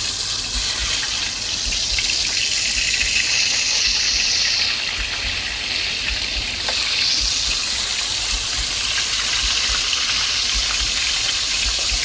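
Steady sizzling of hot oil in a cooking pot as pieces of oxtail fry, a continuous hiss with faint crackles.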